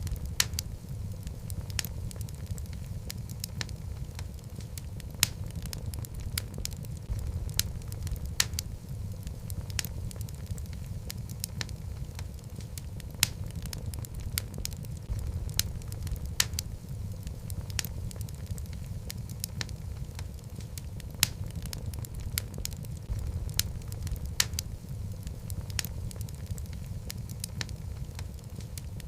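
Wood logs burning in a fireplace: a steady low rumble of flame with frequent sharp crackles and pops at irregular intervals.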